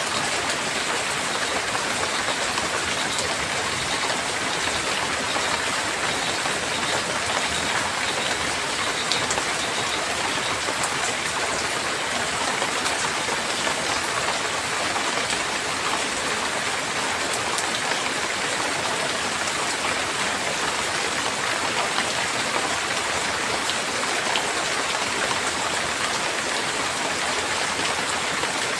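Steady heavy rain falling, an even hiss with many close drop ticks.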